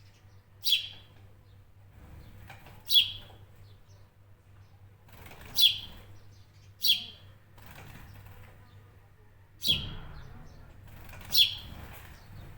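A bird giving six short, sharp chirps spaced a second or two apart, each dropping quickly in pitch, over a faint steady low hum.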